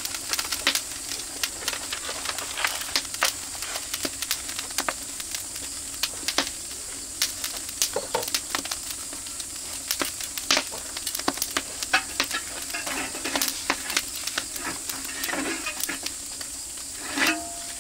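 Meat sizzling on a grill over an oak-wood fire: a steady hiss with many irregular sharp pops and crackles.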